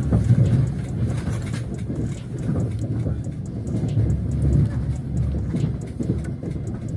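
Low rumble and rattling of a moving passenger train, heard inside a sleeper carriage.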